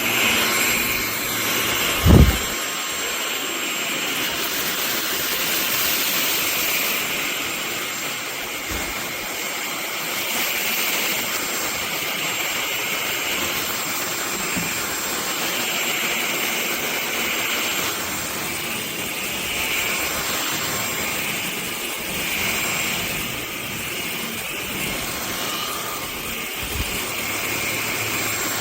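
MBYULO 600 W cordless stick vacuum running steadily with a high whine, its level swelling and fading every few seconds. One sharp thump about two seconds in.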